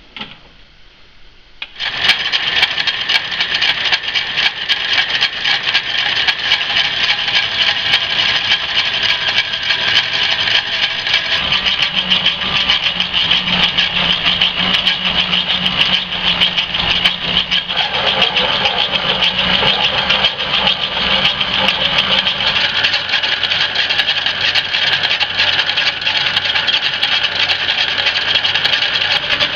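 A metalworking shop machine starts abruptly about two seconds in and runs steadily and loudly, with a low steady hum joining for several seconds midway.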